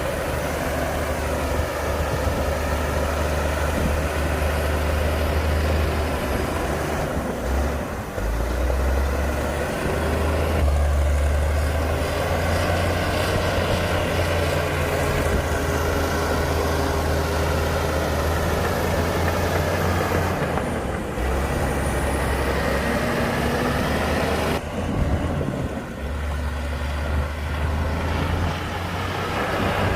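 Heavy diesel engine of earthmoving equipment running under load, its pitch rising and falling as the machine works, with sudden shifts in the sound several times.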